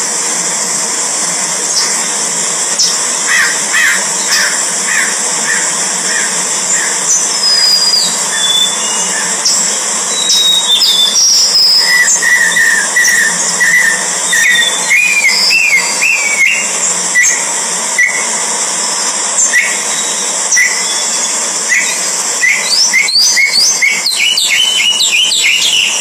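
Birds chirping in runs of short repeated notes, with a few higher whistled notes that glide down in pitch a quarter of the way in, over a steady high hiss.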